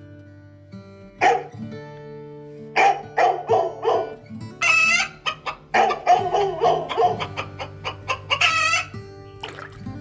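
Chicken clucking in a run of short calls, with two longer drawn-out calls midway and near the end, over steady background music.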